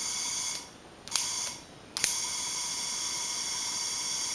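Propane torch hissing as gas flows while it is being lit. The hiss cuts out twice and comes back each time with a sharp click.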